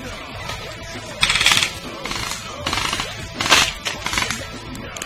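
Several short bursts of rapid airsoft gunfire over background music.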